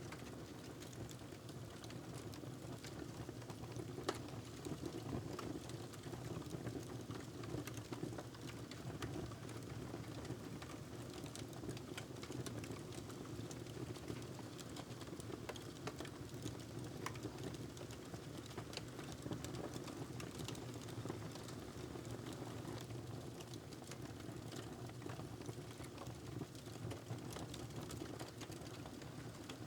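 Wood fire crackling in a fireplace: irregular small pops and snaps over a steady low rumble of flame, with one sharper pop about four seconds in.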